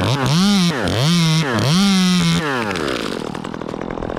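Two-stroke chainsaw running at high revs. Its pitch dips sharply three times and climbs back, then it winds down to idle about two and a half seconds in.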